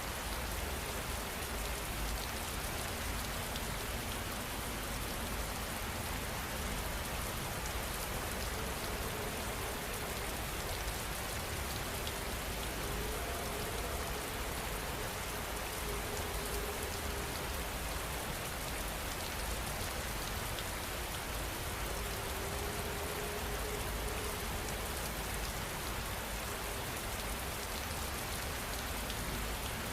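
Steady rain falling, an even, continuous hiss of drops with no let-up.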